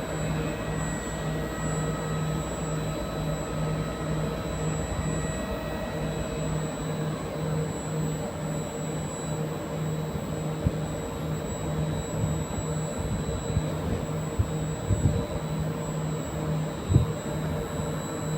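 A train's steady electrical hum and whine, several constant tones over a low rumble, with a low tone pulsing about twice a second. A few short thumps come in the second half.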